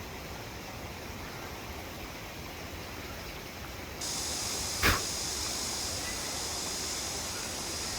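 Steady rushing of a mountain stream. A steady high hiss joins abruptly about four seconds in, and a single sharp knock sounds just before five seconds in.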